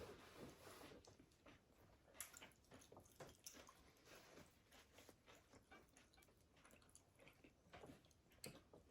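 Faint chewing close to the microphone: scattered soft mouth clicks and wet smacks.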